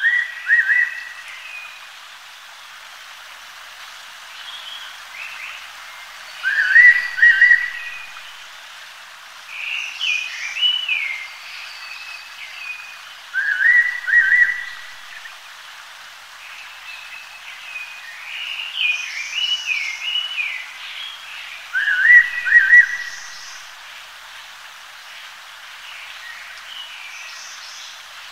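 Fairy pitta giving its loud two-note whistled call four times, about every seven seconds. Other birds call more softly in between over a steady hiss.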